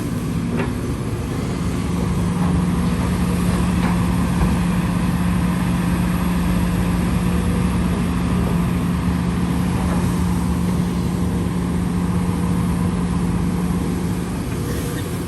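Engine of a heavy construction machine running steadily, a low even drone that strengthens about a second and a half in and eases near the end.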